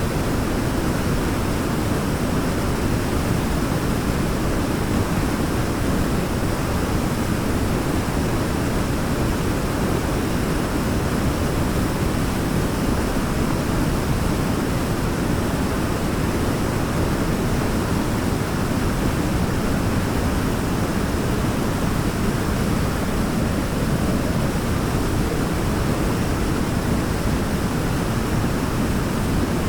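Waterfall: a steady, unbroken rush of falling water, deep and even, with no splashes or changes standing out.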